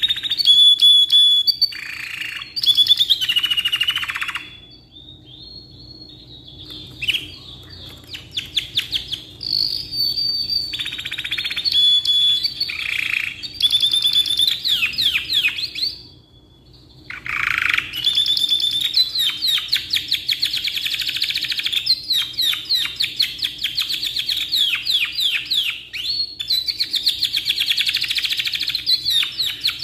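Domestic canary singing a long song of fast trills and rapid repeated notes, dropping away briefly about five seconds in and again around sixteen seconds before running on.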